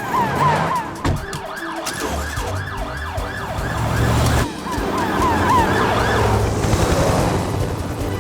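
Emergency vehicle siren on a cartoon rescue call-out: a fast yelping siren that sweeps up and down in pitch about four times a second.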